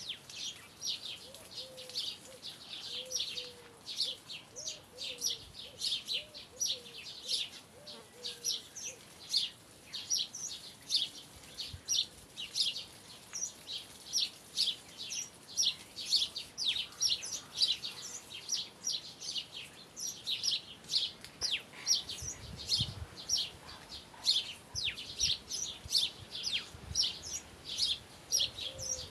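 Songbirds chirping, many short high chirps a few times a second, with a fainter, lower warbling call in the first several seconds.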